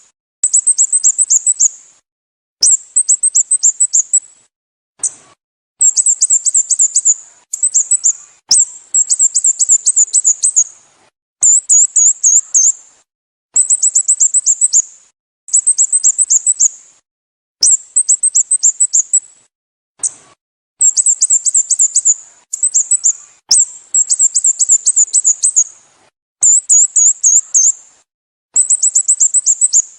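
Sooty-headed bulbul (Pycnonotus aurigaster) calling: bursts of rapid, high-pitched chirping notes, each burst a second or two long, repeated about every two seconds.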